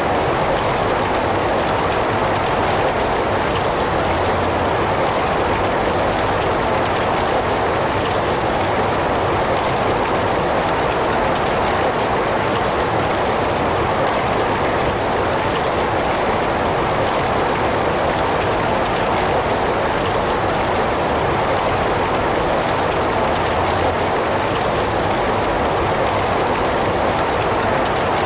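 Heavy rain falling steadily, a dense even hiss of drops without distinct splashes or pauses.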